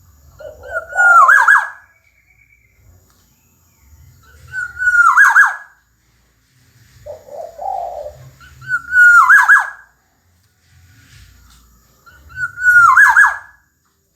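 Black-naped oriole singing: four loud fluting phrases about four seconds apart, each about a second long. A lower, softer warble comes just before the first and third phrases.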